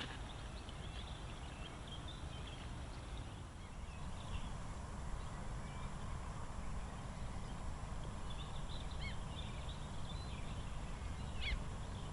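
Scattered short bird calls, chirping high and thin here and there, over a steady low background rumble of open-air noise.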